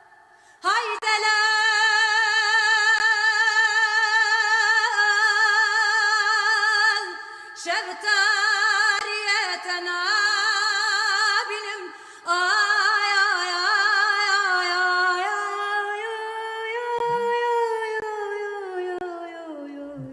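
A woman singing a Kurdish lament solo, in long held phrases with wide vibrato and ornamented turns. There are three phrases with short breaths between them, and the last one slides slowly down in pitch.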